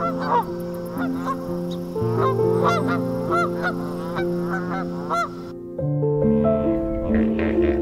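Egyptian geese honking, a rapid series of short calls over background piano music; the calls stop abruptly about five and a half seconds in, leaving only the music.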